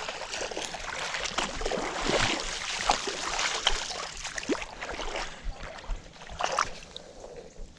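Water splashing and sloshing with small clicks and knocks as a hooked smallmouth bass thrashes while being landed, dying down near the end.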